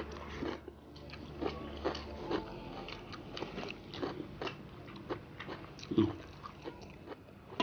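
Eating noises: irregular chewing, lip smacks and small crunches of a mouthful of rice and fried fish, with small clicks as fingers pull apart a whole fried fish. One louder knock about six seconds in.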